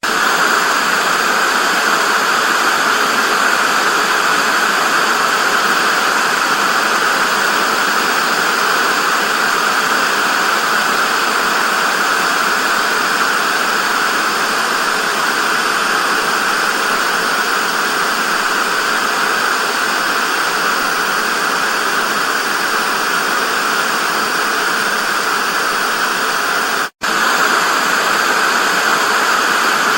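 Steady television static hiss, brightest in the upper-middle range with little bass, cutting out for an instant near the end.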